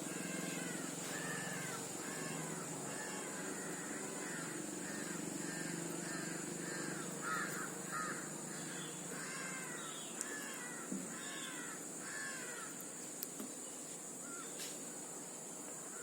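Crows cawing over and over, about two caws a second, stopping about twelve seconds in; a few faint clicks follow.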